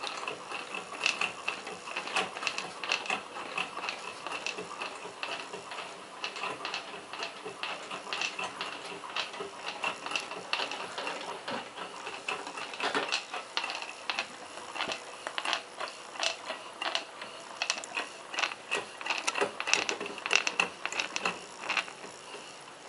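Homemade model Stirling engine running steadily on an alcohol burner: its construction-kit metal shaft and linkage clatter in a fast, uneven run of clicks over a faint steady high tone.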